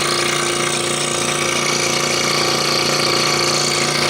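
Scroll saw running steadily, its blade stroking rapidly up and down as it cuts through a thin wooden jigsaw puzzle board.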